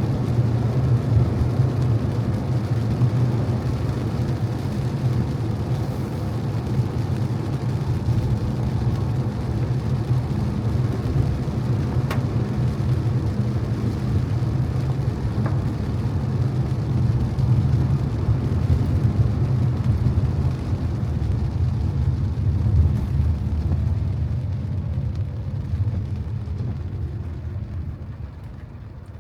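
Car driving on wet streets: steady low road rumble with tyre hiss. It grows quieter near the end.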